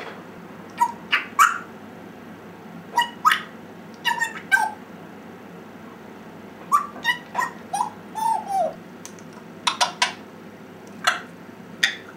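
African grey parrot making short squeaky, whimper-like calls and clicks in small groups every second or two, with one longer call that slides down in pitch about eight seconds in.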